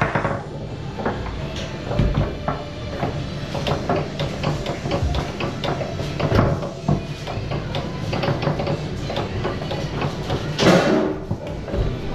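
Foosball play on a Tornado table: the hard ball clacking off the men and walls and the rods knocking in quick irregular strikes, with one louder crash about ten and a half seconds in.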